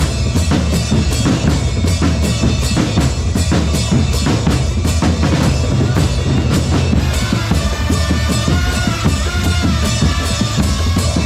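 Marching drum corps playing: snare and bass drums beat out a fast, steady rhythm. About seven seconds in, a wavering melody line joins over the drums.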